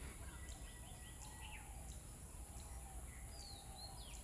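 Several small birds chirping and calling, with many quick downward-sliding whistles, faint over a steady low hum.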